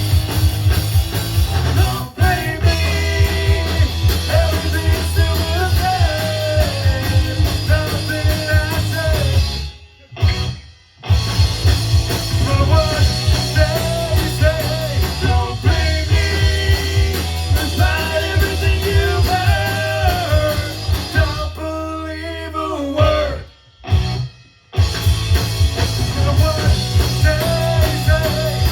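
Live punk rock band playing loudly with drums, guitars and singing; the band stops dead twice for about a second, near the middle and again near the end.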